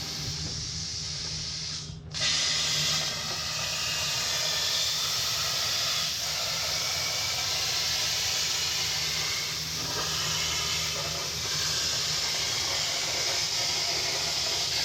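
CNC plasma torch cutting metal on a ShopSabre plasma table: a steady loud hiss of the arc and air, with a brief drop-out about two seconds in.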